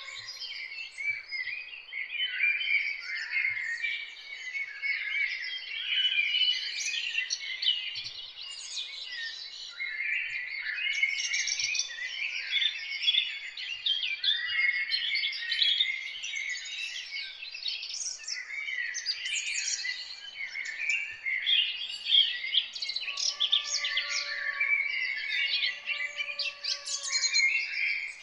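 A chorus of many small songbirds singing and chirping at once, a dense, overlapping stream of quick high notes. Near the end a few lower, slurred, drawn-out notes come in beneath them.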